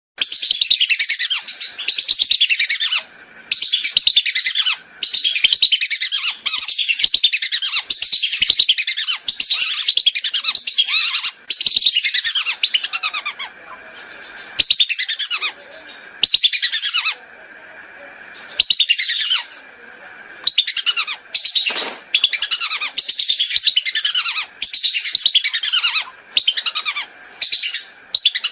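Whistling ducks (belibis) calling as a flock: a dense run of shrill, rapidly repeated whistles that fall in pitch, in bursts with short breaks, softer for a few seconds past the middle. This is a lure-call recording meant to draw wild whistling ducks in.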